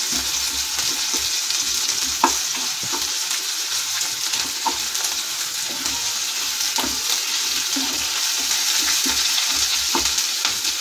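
Chopped onions with ginger, garlic and green chillies sizzling in hot oil in a kadhai, with a steady hiss. A wooden spatula stirs them, clicking and scraping against the pan now and then.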